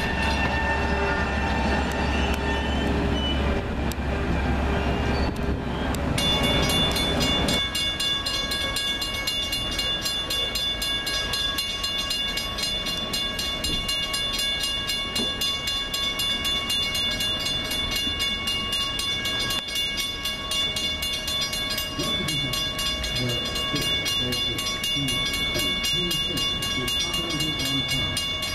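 A train passing with a heavy low rumble that drops away after about seven seconds. From about six seconds in, a railroad grade-crossing bell rings on in a fast, even beat.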